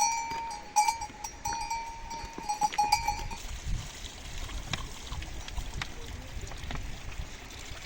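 Metal bells on grazing livestock clanking in short, uneven strokes for the first three seconds or so, then stopping, leaving scattered light knocks over a low rumble.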